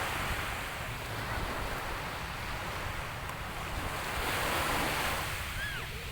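Sea waves washing onto the shore, the surf swelling near the start and again about four seconds in, with wind rumbling on the microphone.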